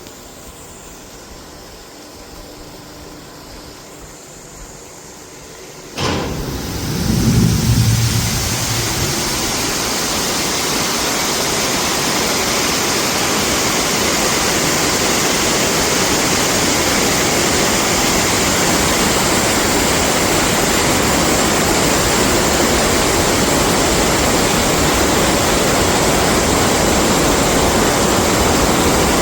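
Floodwater pouring through the Kothmale dam's opened spill gates: a fainter background, then about six seconds in a sudden onset of loud, steady rushing water that holds on without letup.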